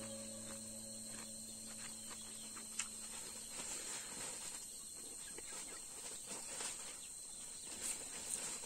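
Faint eating sounds of rice and pork eaten by hand: soft chewing and small irregular mouth clicks, one sharp tick about three seconds in. A steady high-pitched insect drone runs underneath.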